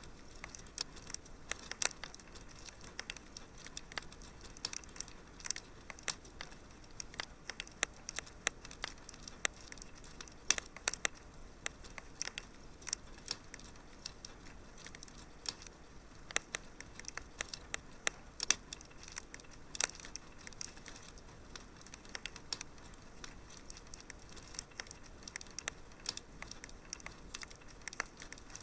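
Fireplace fire crackling: irregular sharp snaps and pops over a soft steady hiss.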